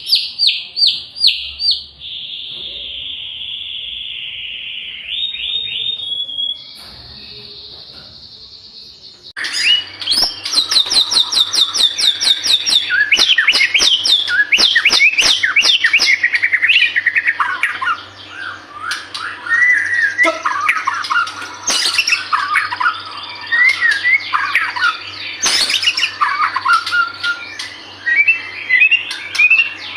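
White-rumped shama (murai batu) in full song. It opens with rapid runs of repeated whistled notes and a long, steady buzzy trill. From about nine seconds in comes a loud, varied song of fast note series and sharp clicks over a low steady hum.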